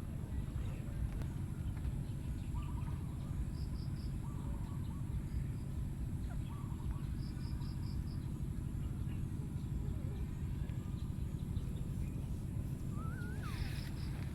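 A steady low rumble with scattered short animal chirps and calls over it, a few quick high ticks in little runs, and a rising, warbling call near the end.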